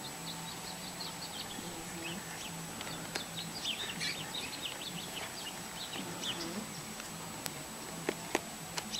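Small birds chirping: many short, high chirps, thickest in the middle, over a faint steady low hum, with a couple of sharp clicks near the end.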